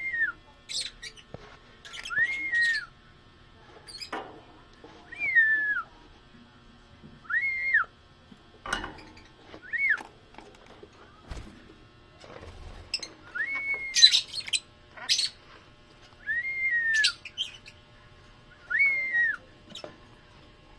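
African lovebird giving a series of about nine short whistled calls, each rising, holding and then falling, spaced roughly two seconds apart, with short sharp chirps between them.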